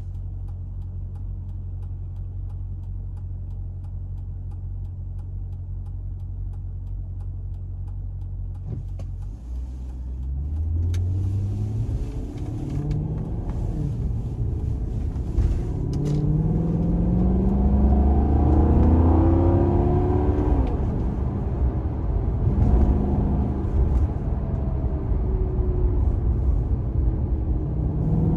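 2009 Maserati Quattroporte's V8 idling steadily, heard from inside the cabin. About nine seconds in it pulls away and accelerates through several upshifts, the engine note climbing and dropping back at each shift. It then settles and starts climbing again near the end.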